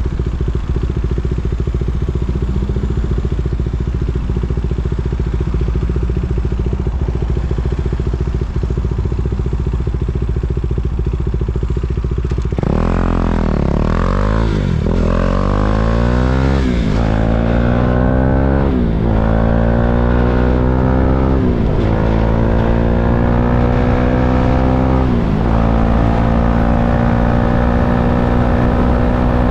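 KTM Duke 390's single-cylinder engine idling steadily, then about twelve seconds in pulling away and accelerating, its pitch climbing and dropping back several times as it shifts up through the gears before settling into a steady cruise.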